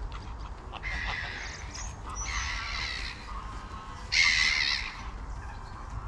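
Three harsh, raspy bird calls, each under a second long. The last, about four seconds in, is the loudest.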